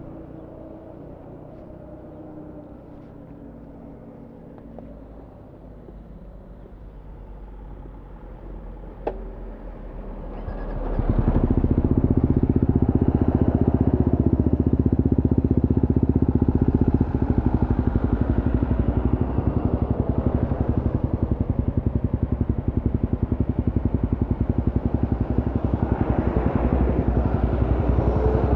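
Suzuki GSX-S150 single-cylinder engine through a Quinze big-volume aftermarket exhaust, running quietly at first with a sharp click about nine seconds in. About eleven seconds in it gets much louder and then runs steadily.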